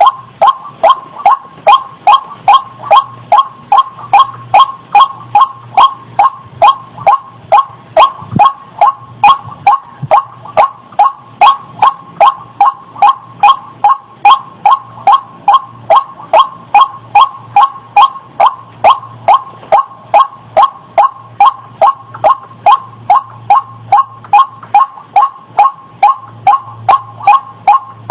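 White-breasted waterhen (burung ruak) calling, a loud call note repeated evenly about twice a second without a break, played as a lure call for trapping the bird.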